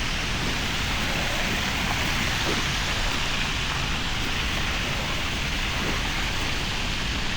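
Steady rushing noise of a bicycle ride on snowy, wet streets: wind on the camera microphone and tyres hissing on the wet road.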